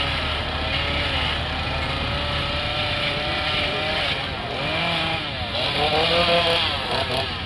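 Gas chainsaw carving wood, its pitch repeatedly dropping and rising again as it is throttled and bites into the wood, loudest about six seconds in. A steady low engine hum runs underneath for the first few seconds.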